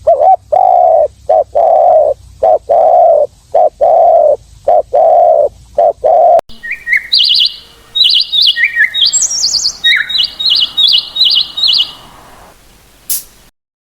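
A repeated call of about ten steady, medium-pitched notes with short gaps between them, then after an abrupt switch a bird's rapid high chirps and tweets in quick clusters. A single click near the end.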